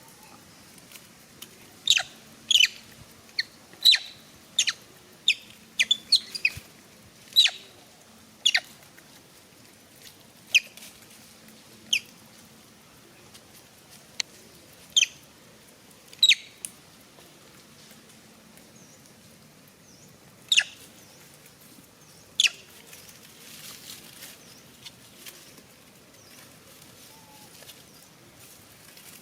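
Short, sharp, high-pitched animal squeaks, each dropping slightly in pitch. About a dozen come in quick, irregular succession, followed by two more spaced out near the middle.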